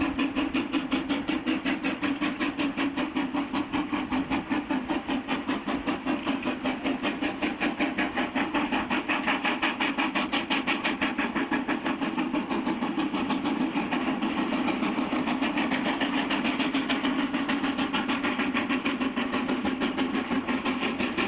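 Steam locomotive working hard with a fast, even exhaust beat of about five chuffs a second over a steady hum. It cuts off abruptly at the very end.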